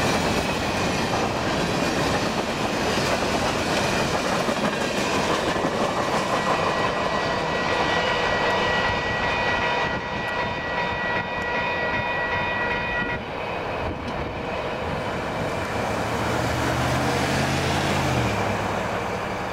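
Empty covered grain hopper cars of a freight train rolling past and away, wheels clicking over the rail joints. In the middle a steady high whine sounds for several seconds, then cuts off suddenly.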